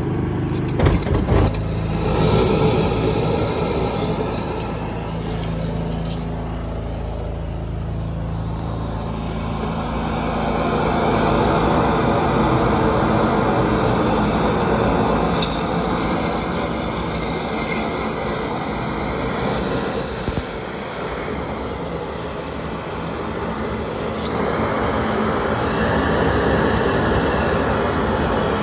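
Engine-driven high-pressure drain-cleaning washer running steadily, with a rushing, hissing noise that swells and eases. There are a few sharp knocks about a second in.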